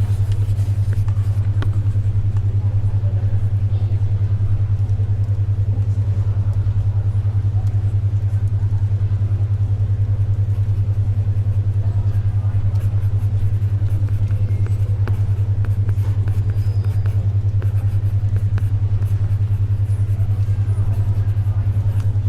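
A steady low-pitched hum with a rapid pulse, the 10.2 Hz alpha-wave brainwave tone. It plays over faint library ambience, with soft scattered clicks of turning pages and pencil writing.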